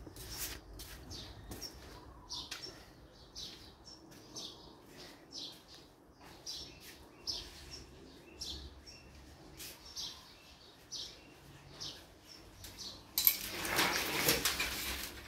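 Small birds chirping in short, high, repeated chirps, about two a second. Near the end there is a louder burst of rustling noise lasting a couple of seconds.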